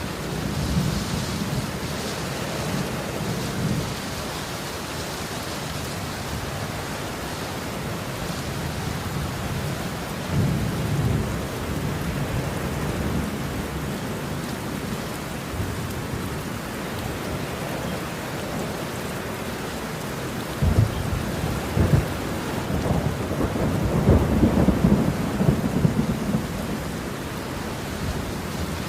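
Steady rain with rolling thunder. Low rumbles come and go, then two sharp cracks about two-thirds of the way through are followed by a longer, louder rumble.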